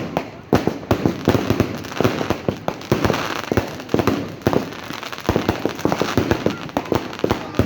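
Fireworks going off in a dense run of sharp bangs and crackles, several a second, irregular.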